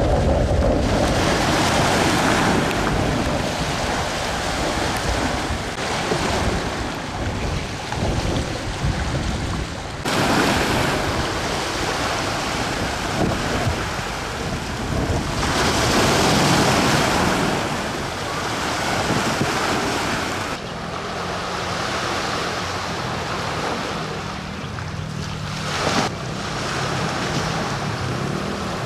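Rough sea: waves surging and breaking under strong wind, with wind buffeting the microphone. The sound changes abruptly twice, about a third and two-thirds of the way through.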